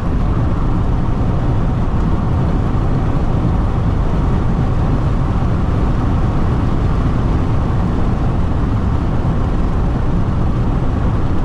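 Steady rush of wind and road noise inside a Jeep Renegade diesel cabin at high highway speed with the windows open.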